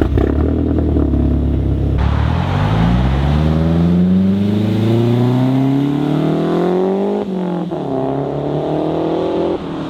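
Turbocharged car pulling away under hard acceleration: the engine note holds low for about two seconds, then climbs steadily in pitch, drops suddenly at a gear change about seven seconds in, and climbs again.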